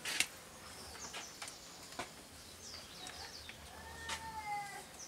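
Faint outdoor background of small birds chirping, with short, quick, falling chirps scattered throughout and a longer call about four seconds in, along with a few sharp clicks.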